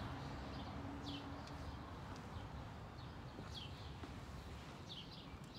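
Songbirds chirping now and then, a few short falling chirps, over a steady low outdoor rumble.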